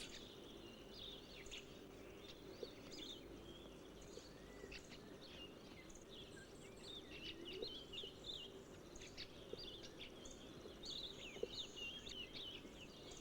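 Faint forest ambience: many short, quick bird chirps and calls, scattered throughout over a faint steady hum.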